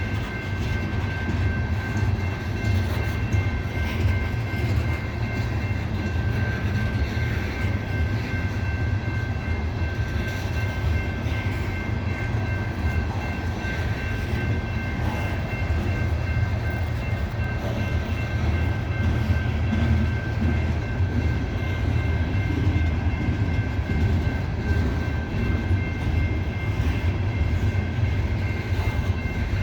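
Loaded coal hopper cars of a freight train rolling past at a crawl, a steady heavy low rumble with a thin high-pitched whine held throughout.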